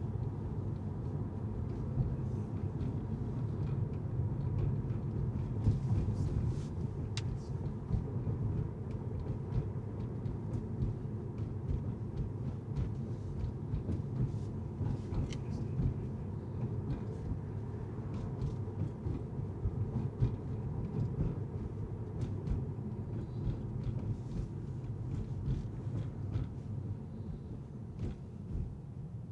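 Car driving: a steady low rumble of road and engine noise, with scattered faint ticks.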